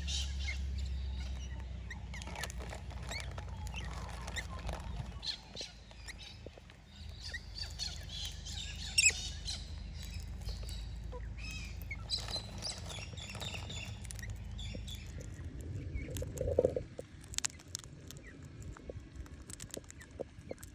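Birds chirping and calling, many short high notes mixed with scattered clicks and taps, over a steady low rumble that drops away near the end.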